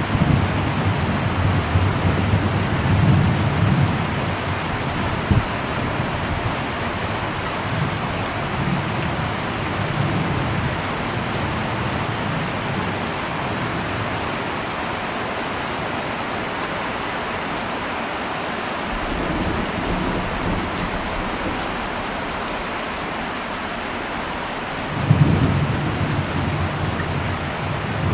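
Heavy rain drumming steadily on an old metal roof, with low rolls of thunder rumbling underneath. A louder thunder rumble starts suddenly about 25 seconds in.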